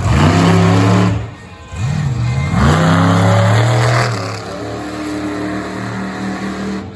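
Monster truck engine revving hard twice, each rev climbing in pitch and held for about a second, with a short dip between, then running lower and steadier from about four seconds in.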